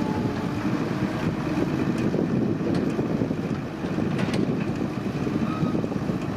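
Excavator's diesel engine running steadily at working speed, with a few faint clicks and knocks about two, three and four seconds in.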